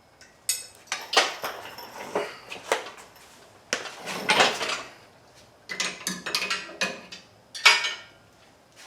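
Metal engine-hoist parts being handled, clanking and clinking in an irregular string of knocks, with one loud clank near the end.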